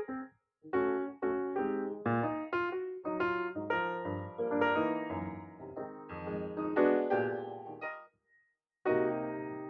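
Background piano music: struck notes and chords, breaking off for about a second near the end before starting again.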